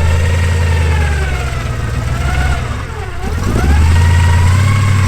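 Off-road 4x4's engine revving up and down under load while crawling a rock obstacle; the pitch sags about three seconds in, then climbs and holds higher.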